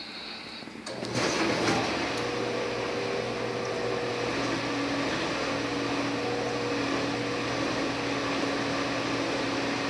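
Brastemp dishwasher's wash pump starting about a second in, then running steadily with a low hum and a rushing of water circulating inside the tub.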